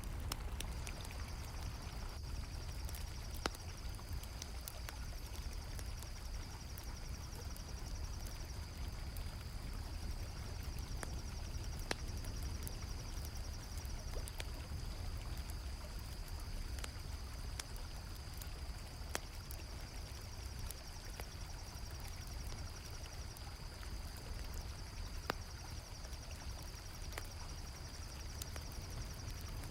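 Flowing river water mixed with a crackling campfire and crickets chirping. The fire gives scattered sharp pops and the crickets a steady high trill.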